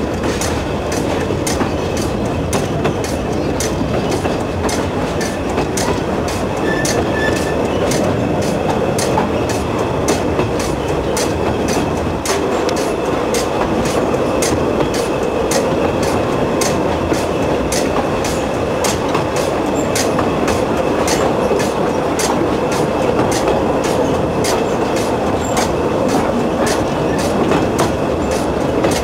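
Narrow-gauge train running along the track, with a steady rumble and the wheels clicking over rail joints about twice a second.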